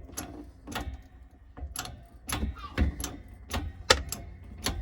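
Irregular sharp metallic clicks and knocks, about two or three a second, from a coin-ring hole punch worked in a 6-ton bottle-jack hydraulic press as the punch is driven through the coin. The loudest knock comes a little before four seconds in.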